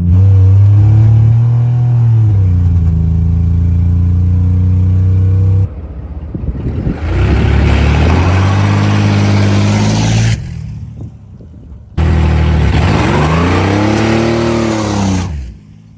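Chevy 4.3-litre V6 truck engine at full throttle in three short cut-together runs. The first holds a steady high pitch. The next two each climb in pitch as it revs hard and then fall back, comparing a naturally aspirated pull with one on a 150-shot of nitrous.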